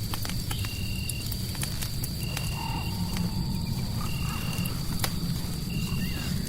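Crackling fireplace: scattered sharp pops and snaps over a steady low rumble of fire and white noise. Mixed in, a short high chirp repeats evenly about every second and a half, and a brief lower call sounds about halfway through.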